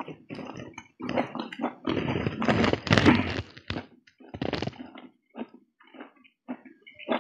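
A man chewing a momo dumpling with his mouth close to the microphone, with loud mouth smacking. The sound is densest about two to three and a half seconds in, then thins to slower, separate chewing smacks.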